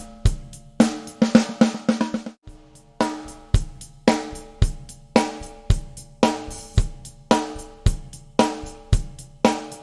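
Drum kit groove of bass drum, hi-hat and cymbals played around a Pearl brass-shell free-floating piccolo snare, with a sharp crack and a ringing tone after each snare hit. The beat is steady, with a quick burst of hits about a second in.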